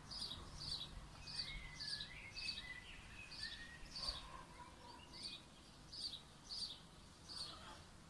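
A small bird chirping, one high chirp repeated over and over about every half second, with a few quieter, lower whistled notes from another bird in the first half. A faint low rumble of distant road traffic runs underneath.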